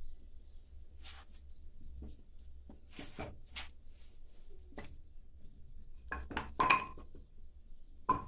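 Split oak firewood logs knocking against each other as they are set on a stack: scattered hollow wooden knocks, loudest in a quick run of clacks about six to seven seconds in.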